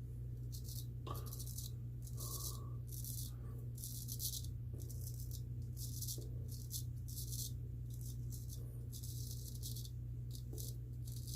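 Gold Dollar 208 straight razor scraping through lathered stubble in a series of short strokes, about one or two a second, each a brief rasp.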